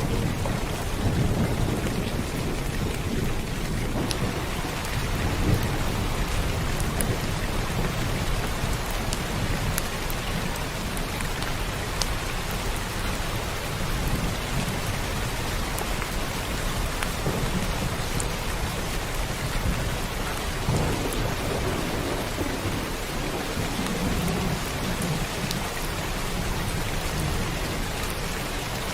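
Steady heavy rain falling on a surface, with individual drops ticking, under low rolling thunder that swells and fades several times.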